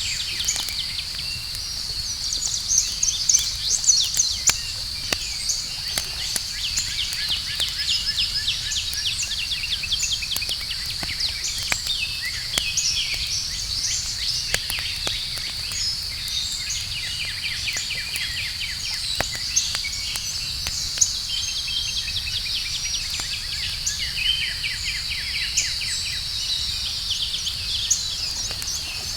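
Campfire crackling, with sharp pops scattered throughout, under a chorus of night insects: a steady shrill drone with quick chirping trills on top.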